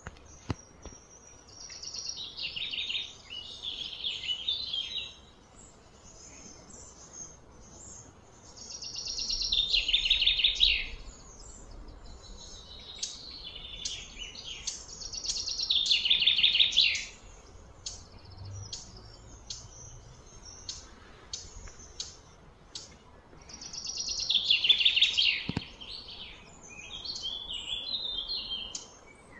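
Bird song: loud, high, rapidly trilled phrases of two to three seconds each, repeated about every six to eight seconds over faint background noise.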